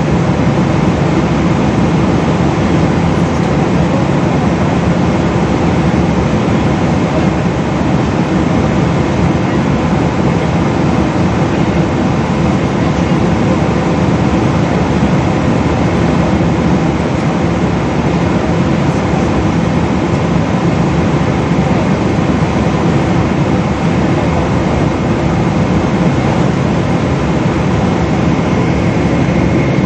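Steady cabin noise inside a Boeing 777 airliner in flight: an even drone of the engines and rushing air, with a faint high whine coming in near the end.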